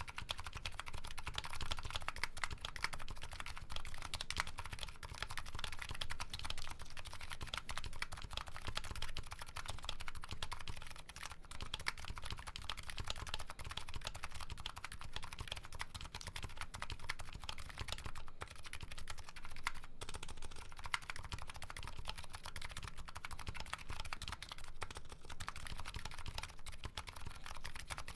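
Continuous typing on a Nuxros Kraze custom keyboard with MetaKeebs MetaPulse electrocapacitive switches: a steady stream of quick keystroke clacks.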